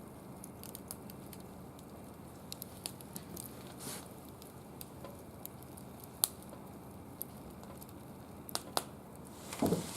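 Small wood fire crackling in a barbecue grill: scattered sharp pops and snaps over a low steady hiss, with a louder rustle near the end.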